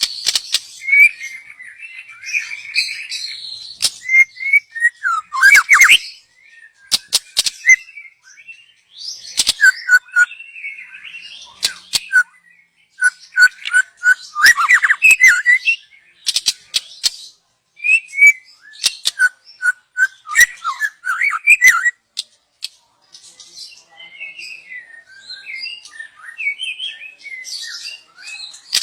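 Young wild white-rumped shama singing a long, varied song of whistled phrases mixed with sharp clicking and chattering notes, coming in bursts separated by brief pauses.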